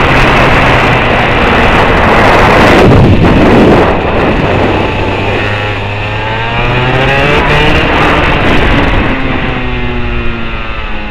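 Engine running, its pitch rising and falling as it revs up and eases off, under a loud rushing noise for about the first four seconds.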